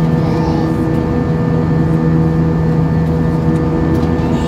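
Steady cabin drone of an Airbus A320-232 in flight: rushing airflow and engine noise from its IAE V2500 engines, with a constant low hum and several steady tones held throughout.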